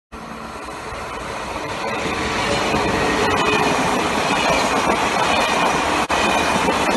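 Double-deck TGV high-speed train approaching and passing close by at speed. Wheels on rail and rushing air grow louder over the first few seconds, then hold steady as the coaches go by, with a brief break about six seconds in.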